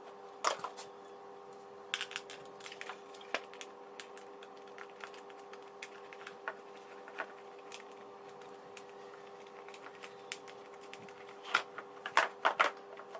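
Scattered sharp clicks and knocks of a Toshiba vacuum cleaner's plastic parts being handled and fitted back together during reassembly, with a quick cluster of louder clicks near the end. A steady faint hum runs underneath.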